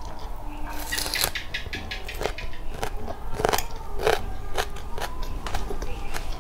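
Close-miked bite into a raw red onion with a crisp crunch about a second in, then crunchy chewing, about two crunches a second.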